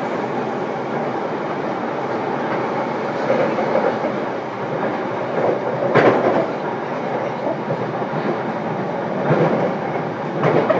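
Running noise inside a JR East E233 series electric train's motor car: a steady rumble of wheels on rail, with a few louder clacks, the sharpest about six seconds in.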